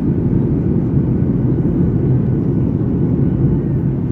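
Steady low rumble of cabin noise inside a Boeing 737-900ER, the mix of its CFM56-7B jet engines and airflow past the fuselage, even and unbroken.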